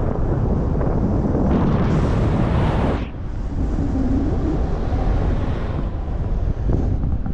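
Wind buffeting the microphone with a loud, low rumble. A stronger hissing gust comes about one and a half seconds in and cuts off sharply near three seconds.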